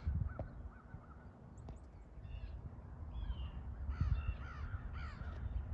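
Birds calling in runs of short, quick notes, one run just after the start and another about four seconds in, over a low rumble of wind on the microphone.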